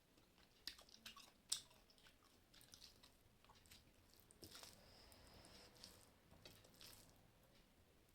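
A person chewing and biting food close to the microphone, faint crunching with scattered sharp clicks, the sharpest about a second and a half in.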